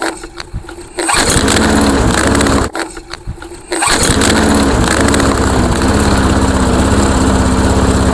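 Briggs & Stratton 5 hp single-cylinder engine on a push mower being pull-started. It cranks, fires and runs for about a second and a half, drops out for about a second, then catches and runs steadily. It stays at a low idle because the throttle cable is not attached.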